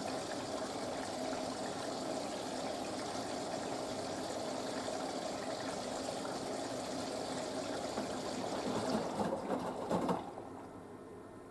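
Water running steadily in a Panasonic washing machine during its wool cycle, with a faint steady hum. A few louder, uneven surges come near the end, and the water stops about ten seconds in.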